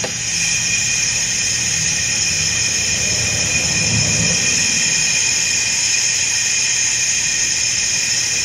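Compressed air hissing steadily through a homemade Powerade-bottle smoker taped to the tailpipe, pushing cigar smoke into the exhaust for a smoke test to find an exhaust leak. A faint low hum runs underneath.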